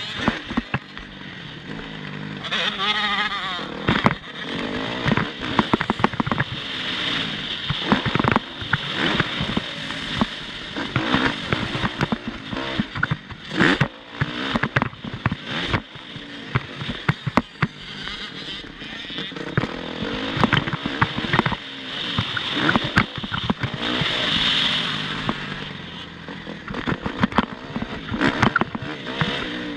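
Motocross motorcycle engine revving up and down as it races, its pitch rising and falling repeatedly, with many sharp knocks and gusts of wind noise mixed in.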